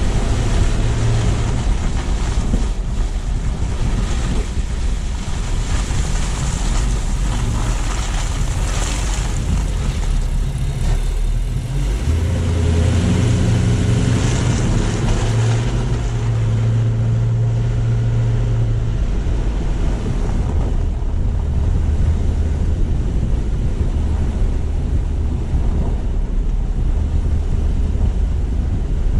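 Car driving along a street: steady road and tyre noise with wind on a low-mounted camera's microphone, over the engine's low hum, which changes pitch about twelve seconds in.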